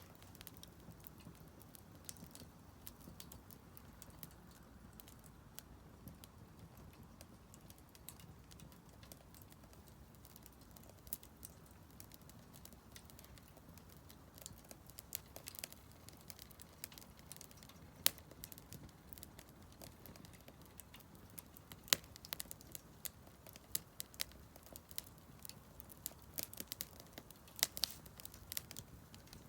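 Split firewood burning in a Solo Stove Campfire fire pit: a low, steady rustle of flame with scattered sharp crackles and pops, which come more often near the end.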